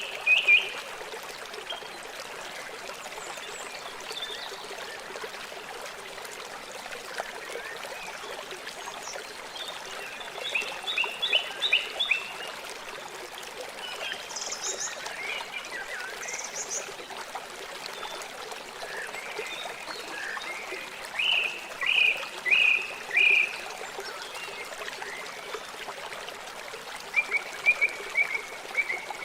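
River water flowing with a steady rush, and several short runs of quick high chirping calls over it, a few times.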